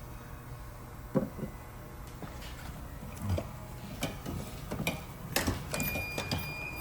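Scattered light clicks and taps of hand tools and parts being handled during work on a heat pump's wiring. A thin, steady, high whistle lasts about a second near the end.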